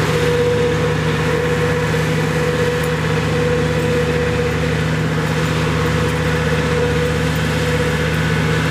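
Old tractor's engine running steadily while it drives a topper cutting down a field, a constant drone with a steady higher whine over it.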